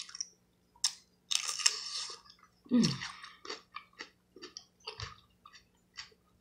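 Close-up eating sounds of seafood: chewing with crunching and short wet clicks, and a brief falling hum about three seconds in.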